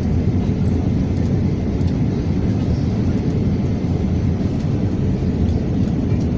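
Steady low rumble of an Airbus A321 airliner's engines and airflow, heard from inside the passenger cabin in flight.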